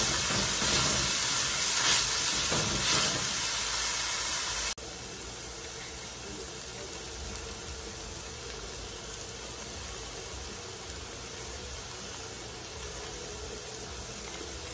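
Peas and carrots sizzling in hot sesame oil in a stainless steel skillet, with a few strokes of a silicone spatula early on. The sizzle drops suddenly about five seconds in and goes on quieter and steady.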